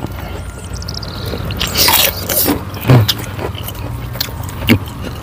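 Close-miked eating: chewing and wet lip-smacking of chicken in a spicy sauce eaten by hand, with several sharp mouth clicks and smacks two to three seconds in. A faint falling whistle sounds in the first second and a half.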